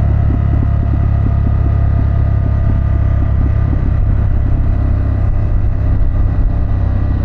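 2024 Harley-Davidson Pan America's Revolution Max 1250 V-twin running steadily at low speed, heard from the rider's seat.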